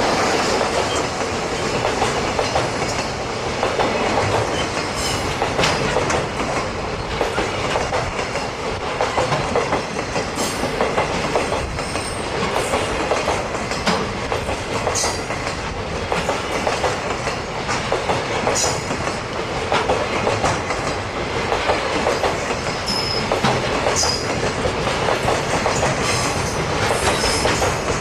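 Freight train wagons rolling past steadily, wheels clicking over the rail joints, with a few short high squeals from the wheels.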